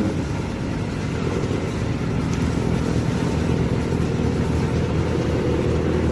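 Kawasaki Ninja ZX-6R inline-four with a full-system aftermarket exhaust, running at a steady idle with an even, deep exhaust note.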